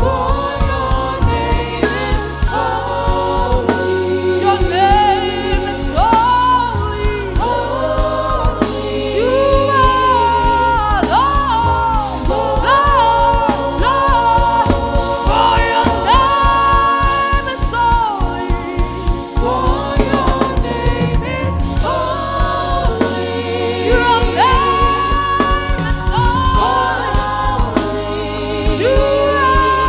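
Live gospel praise-and-worship music: voices singing together with a choir over a band, with steady bass notes and a regular drum beat.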